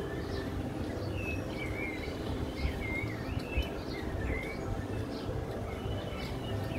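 Small birds chirping, a run of short wavy calls in the first half or so, over a steady low rumble.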